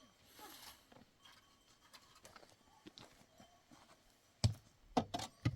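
Faint scattered clicks and taps, then a quick run of loud, sharp knocks with a dull thud to them near the end.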